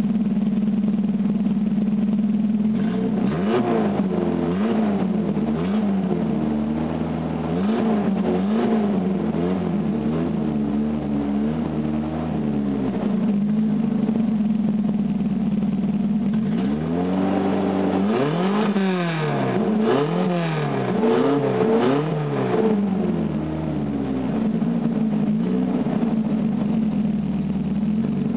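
Exhaust of a 1994 Chevy S10's 2.2-litre four-cylinder engine, running through the stock muffler with no tailpipe and no catalytic converter. It idles, is blipped in a run of quick revs that rise and fall, settles back to idle, then is revved again in a second run before returning to idle.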